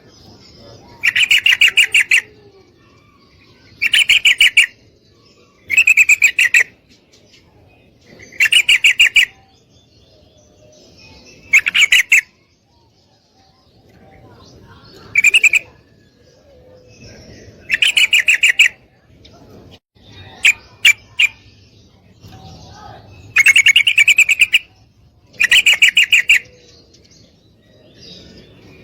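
Female yellow-vented bulbul (trucukan) calling: loud, roughly one-second bursts of rapid chattering notes, about one every two seconds, with a short pause midway and a few single sharp notes. It is a female's call to males, used to rouse them into song.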